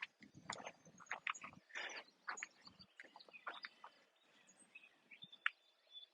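Faint outdoor ambience: birds chirping, with scattered soft short rustling or crunching sounds that thin out after about four seconds.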